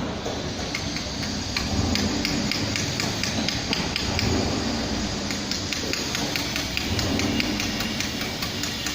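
Irregular light clicks and taps of hand tools working on an engine, a few each second, over a steady low background noise.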